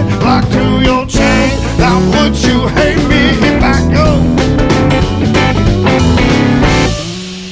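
Live rock band with electric guitar, bass and drums playing a bluesy song, with a singer's wavering vocal lines over the top. About seven seconds in, the band cuts out, leaving one held low note fading away.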